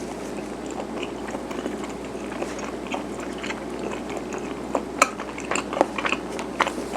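Chewing of garaetteok (chewy Korean rice cake sticks) close to the microphone, with soft, wet mouth sounds. Sharp clicks become more frequent in the second half.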